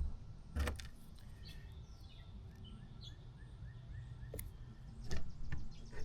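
A few light knocks and clicks as plastic tail-light pieces are handled and fitted, over quiet background with faint high chirps.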